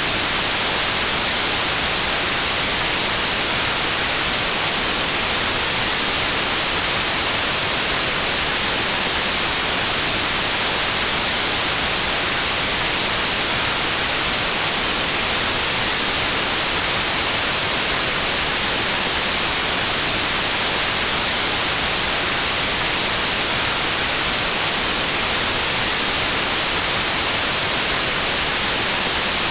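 Steady white noise: an even, unbroken hiss that is brightest in the high end.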